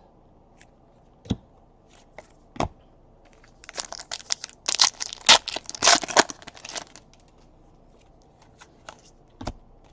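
A trading-card pack wrapper being torn open and crinkled for about three seconds starting three and a half seconds in, with a few sharp taps and clicks of cards being handled before and after.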